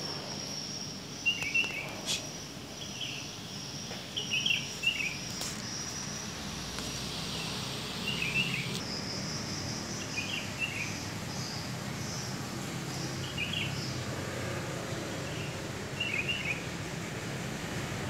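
Short bird chirps repeating every second or two over a steady high-pitched insect buzz, which turns into a pulsing buzz about halfway through.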